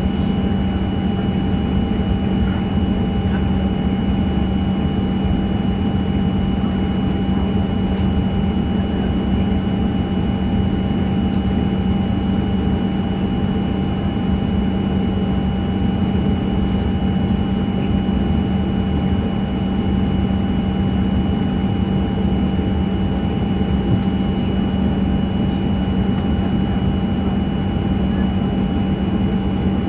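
Steady jet-airliner cabin noise in a Boeing 737-900: an even engine and airflow rumble with a constant low hum and two fainter high whining tones, holding level throughout.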